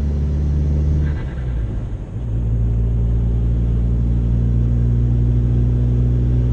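Chevy Sonic's 1.4-litre turbocharged four-cylinder engine running under way with a low, steady note; about a second in it briefly dips and settles at a lower pitch.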